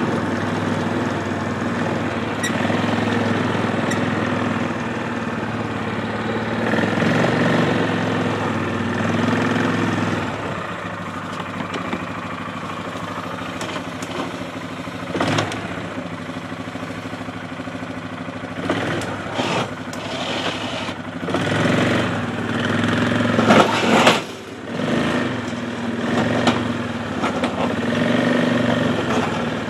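ATV engine running steadily while plowing slush, with a few louder noisy bursts in the second half.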